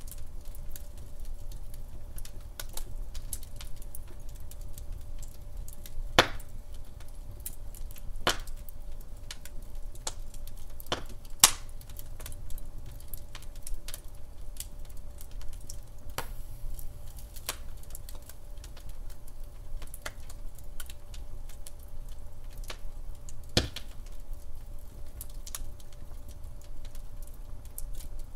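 Wood fire burning in a fireplace: a low steady rumble of flames with irregular crackles and sharp pops, the loudest pops about 6, 8, 11 and 23 seconds in.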